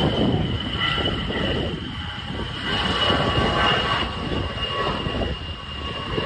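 Jet aircraft passing, its engine noise a loud rumble with a high whine that slowly drops in pitch.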